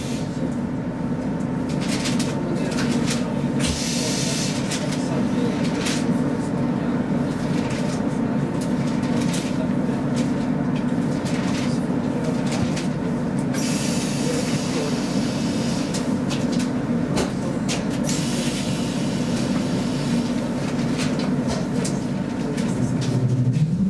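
Steady hum inside the cabin of a Roslagsbanan X10p electric train standing at a station, with a thin steady tone over it and brief hissing noises now and then.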